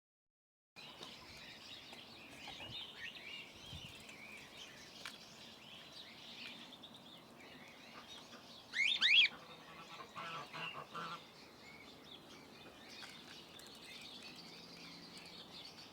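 Cockatiel chirping softly and steadily, with one loud, sharp call about nine seconds in and a brief run of quieter chirps just after it.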